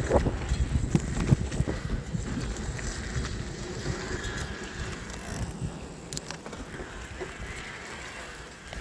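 Electric mountain bike riding over a rough track: a rumble of tyres with sharp knocks and rattles over bumps, and wind on the microphone, growing quieter toward the end.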